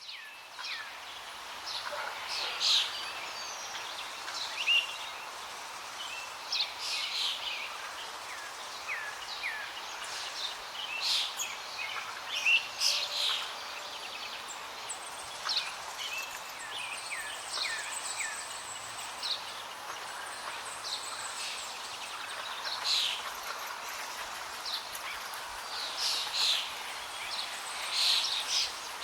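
Many birds chirping and calling, short high calls scattered throughout, some sliding down in pitch, over a steady outdoor hiss.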